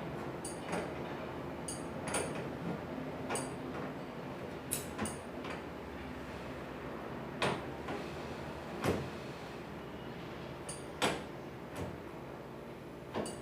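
Irregular sharp clicks and light knocks of tools and metal parts being handled, roughly one a second, over a steady low hum.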